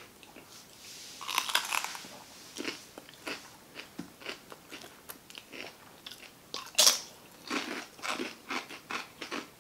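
A person biting and chewing crunchy food close to the microphone: a string of crisp crunches, with the sharpest crunch about seven seconds in and a quick run of crunches after it.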